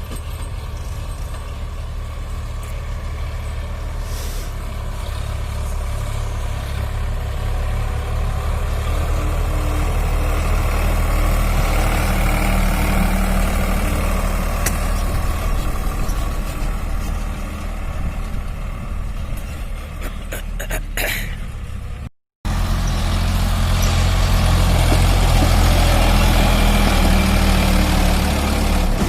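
Sonalika DI 47 RX tractor's diesel engine running steadily under load while hauling a fully loaded trolley. The sound breaks off for an instant about two-thirds of the way through and comes back louder.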